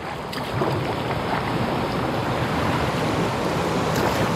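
Fast-flowing stream water rushing around a kayak, a steady wash that builds slightly.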